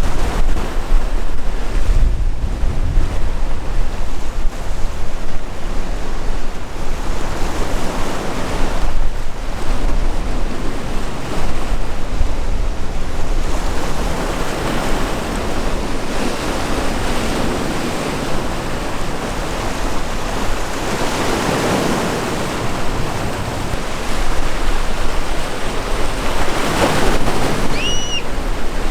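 Sea waves crashing and washing in, surging about every six seconds, with wind buffeting the microphone in a low rumble. A brief high chirp sounds near the end.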